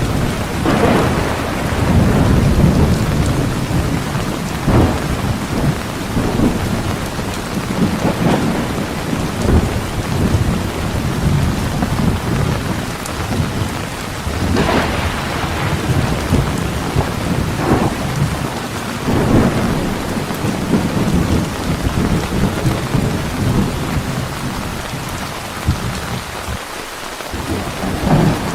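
Heavy rain falling steadily through a thunderstorm, with deep rolling thunder and several sharp crackling strikes, the clearest about 1, 5, 8, 14, 17 and 19 seconds in.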